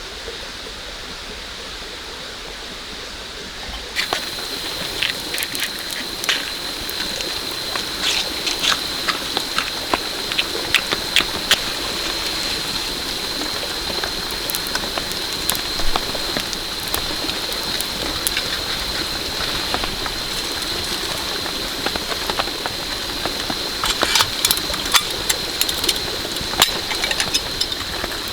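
Steady rain falling. From about four seconds in it gets louder, with many sharp drops tapping on a surface and a thin steady high whine.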